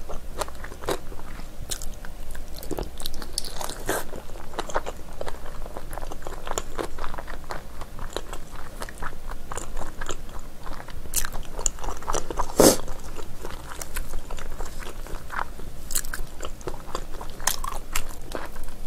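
Close-miked chewing and biting of spicy braised beef foot, the chewy, gelatinous skin and tendon of an ox trotter: many sharp, irregular wet clicks and smacks from the mouth, with one louder one about two-thirds of the way through.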